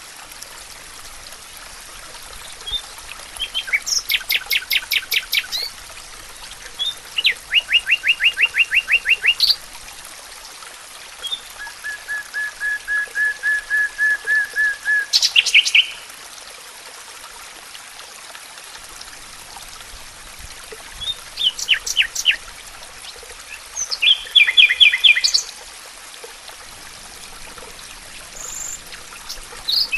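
Songbirds singing a series of trilled phrases made of rapid repeated notes. One is a long even trill that grows louder over about four seconds. A steady hiss of running stream water lies underneath.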